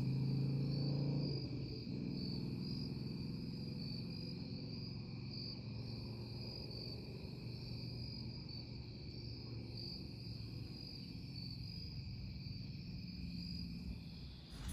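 Crickets chirping steadily in a high, pulsing drone, over a low rumble that fades about a second and a half in.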